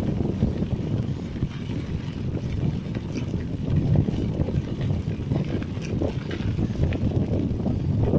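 Mountain bike riding along a dirt forest trail: a steady low rumble of tyres and wind, with scattered light clicks and rattles.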